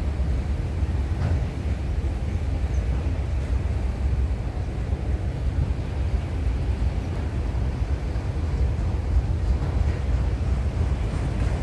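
Freight train of autorack cars rolling past, a steady low rumble of wheels on rail.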